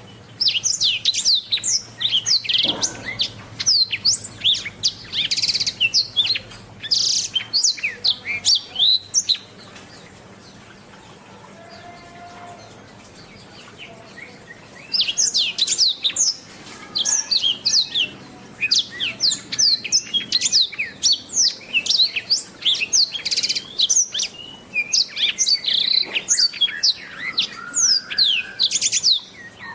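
Black-throated canary (blackthroat) singing in two long bouts of rapid, varied high chirps and trills, with a pause of about five seconds between them.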